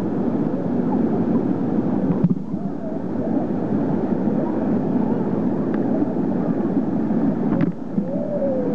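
A waterfall rushing steadily, with faint voices over it. The sound breaks off and resumes abruptly twice.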